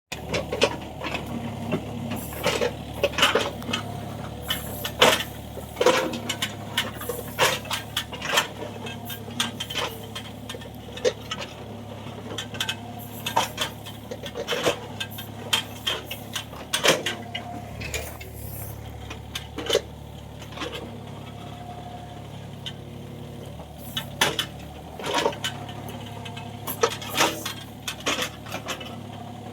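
Kobelco 35 mini excavator travelling on its tracks: a steady engine hum under irregular sharp metallic clanks and clinks, the loudest sounds, coming every second or so.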